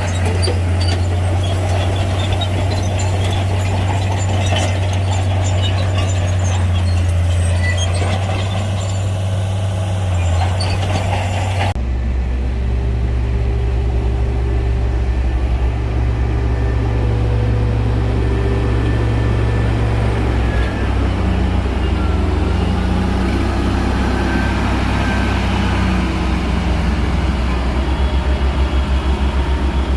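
Heavy Shantui bulldozer's diesel engine running steadily, with scattered crackle over it for the first twelve seconds. About twelve seconds in the sound changes abruptly and turns duller, with a fast pulsing in the engine hum near the end.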